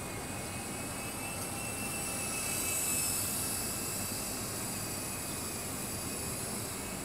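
Twister 400 V2 electric R/C helicopter in flight: a steady high-pitched motor and gear whine over rotor noise, swelling about three seconds in and easing off again.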